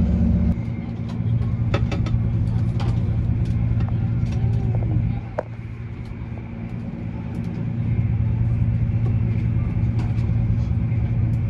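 CrossCountry Voyager diesel multiple unit running along the line, heard from inside the carriage as a steady low engine and running drone. The drone eases off about half a second in and builds up again about seven to eight seconds in, as the power is cut and then reapplied.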